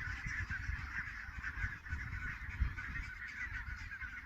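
A large flock of barnacle geese calling continuously, a dense overlapping chorus of yelping honks, with uneven low wind rumble on the microphone.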